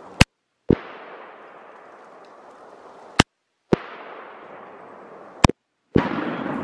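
A Tannerite explosion replayed three times, each a sudden bang that dies away slowly over about two seconds. Each repeat is cut in with a sharp click and a short spell of dead silence before the next bang.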